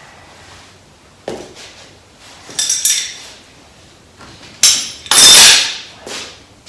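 Loose metal tools and parts clanking and clattering: a knock about a second in, a jangling rattle near three seconds, then the loudest, longer clatter about five seconds in with a further clank just after.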